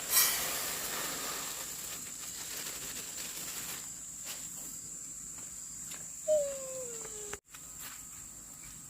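Crickets or similar insects trilling on one steady high note, with a sudden short rush of noise just after the start and a single falling call about six seconds in.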